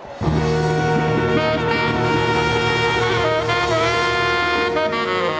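Live band with tenor saxophone and brass horns playing the instrumental introduction to a song. The band comes in together about a quarter second in and holds sustained chords, with no singing.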